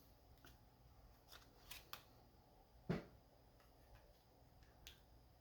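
Near silence with a few faint clicks and taps from oracle cards being handled, the sharpest about three seconds in.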